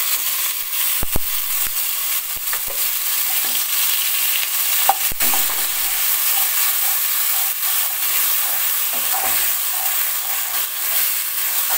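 Onion paste sizzling in hot oil in a pan. The sizzle starts suddenly as the paste goes in, with a wooden spatula stirring through it and knocking against the pan a few times.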